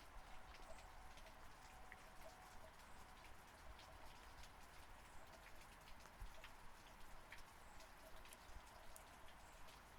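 Faint, steady rain, with many separate drops ticking irregularly over an even wash of noise.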